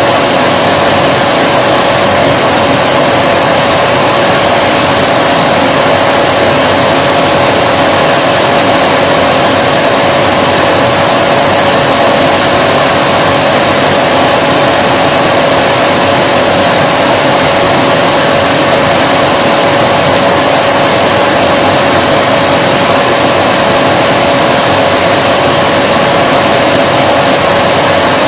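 Vacuum cleaner motor running steadily, a loud even rush of air with a constant whine.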